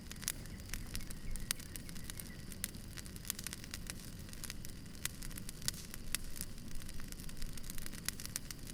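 Campfire crackling: many sharp, irregular pops and snaps over a steady low rumble and hiss of the burning fire.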